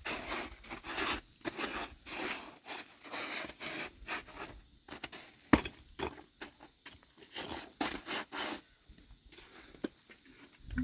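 Repeated scraping strokes, roughly two a second, with one sharp click about five and a half seconds in; the scraping stops after about eight and a half seconds.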